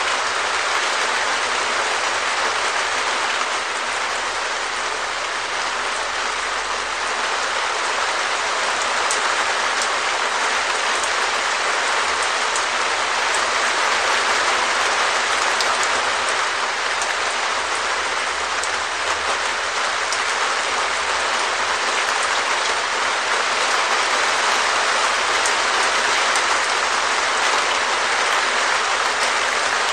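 Steady rain falling on a perspex shed roof: a dense, even patter of drops on the plastic sheeting.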